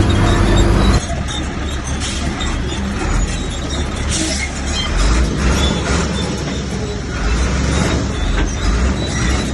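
Komatsu bulldozer's diesel engine running under load, a low rumble with rough clatter. About a second in the steady drone cuts off abruptly and gives way to a noisier rumble.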